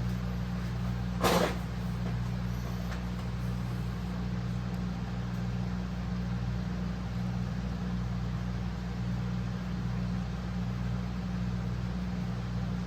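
An engine running steadily at a constant low speed, with one sharp knock about a second in.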